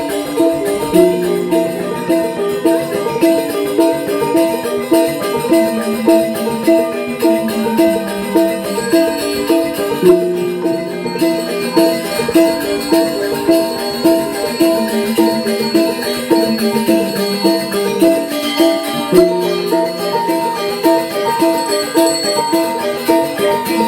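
Balinese gamelan angklung ensemble playing a fast piece: ringing metallophone notes in quick, repeating figures over a steady pulse, without a break.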